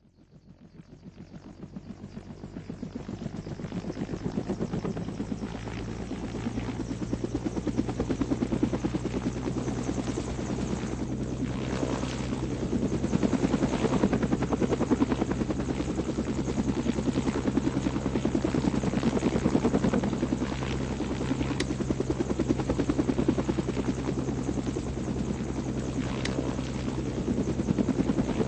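A steady machine noise with a rapid, even pulsing. It fades in from silence over the first few seconds, then holds at a constant level.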